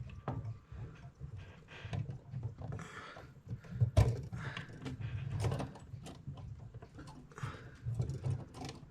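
Small clicks and taps of clock movement parts being handled while the escape wheel is fitted between the plates, with a sharper knock about four seconds in.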